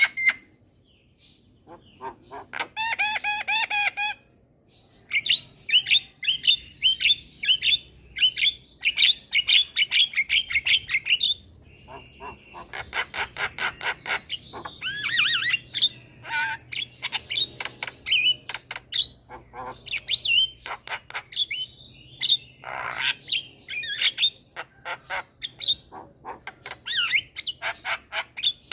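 Javan myna singing a long, varied song of rapid clicking notes, whistles and gliding calls, broken by a harsh, buzzy call late on.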